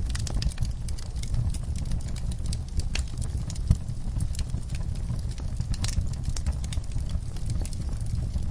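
Wood fire crackling in a fireplace: irregular sharp pops and snaps over a steady low rumble, with one louder pop near the middle.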